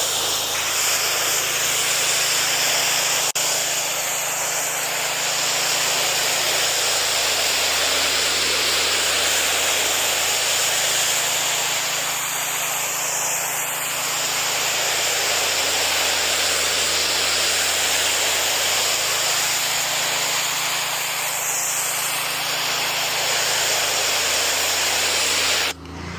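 Pressure washer wand spraying a surface at full pressure: a steady loud hiss that shifts in tone as the spray sweeps, over the machine's steady hum. The spray cuts off abruptly near the end and the machine hums on.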